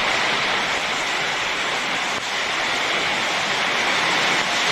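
Heavy rain pouring down in a storm: a dense, steady hiss with no letup.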